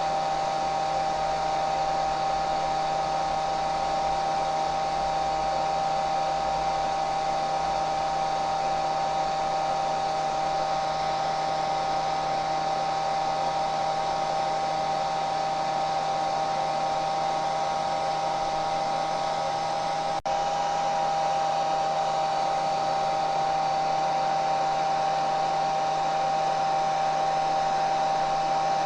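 Hair dryer running steadily: a constant rush of blown air under a steady motor whine. The sound drops out for a split second about two-thirds of the way through.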